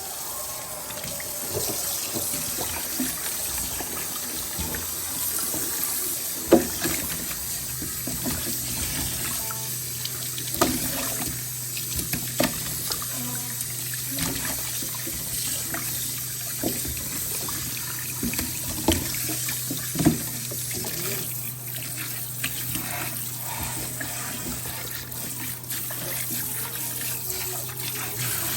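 Kitchen tap running into a sink while raw chicken wings are rinsed, with a few sharp knocks and clatters along the way.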